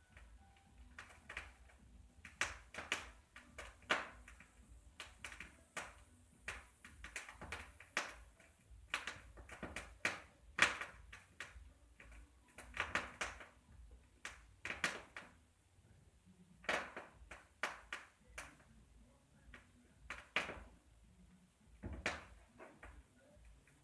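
A run of irregular sharp knocks and taps, some single and some in quick clusters, each with a brief ring.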